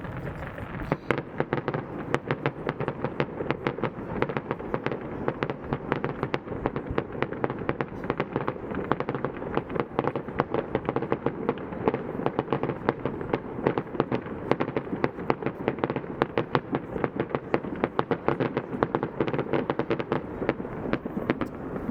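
Fireworks display: a dense barrage of sharp bangs and crackles, several a second, starting about a second in and keeping up without a break.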